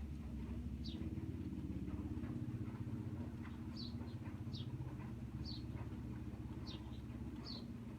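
A small bird repeating a short, high falling chirp about once a second, over the low, pulsing rumble of a vehicle engine that is loudest in the first half.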